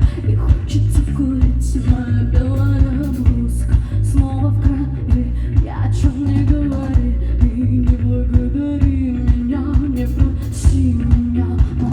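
Live band music: a woman singing the opening verse of a Russian pop-rock song over bass and drums keeping a steady beat.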